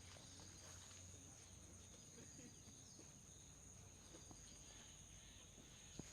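Near silence, with a faint, steady, high-pitched insect trill from crickets.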